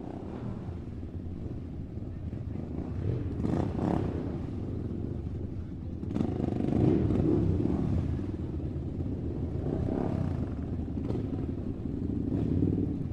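A motor running steadily with a low hum, with a few brief clicks and clatters over it.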